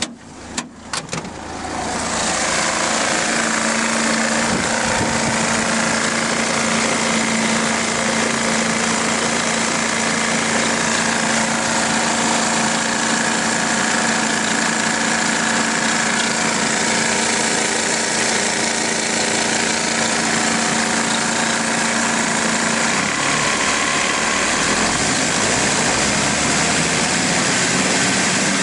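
Mercedes Sprinter 2.9 five-cylinder turbodiesel engine idling. After a few short clicks it comes in loudly about two seconds in and then runs steadily, its hum changing slightly near the end.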